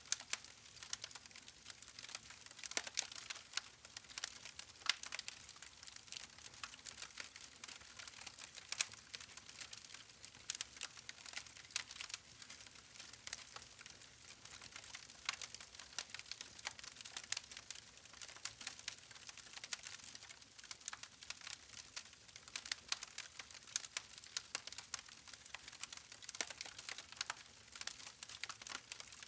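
Logs burning in a campfire, crackling with many irregular small snaps and pops over a faint steady hiss.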